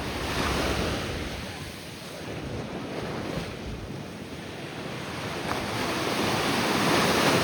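Ocean surf breaking and washing in, swelling about half a second in, easing, then building again toward the end, with wind buffeting the microphone.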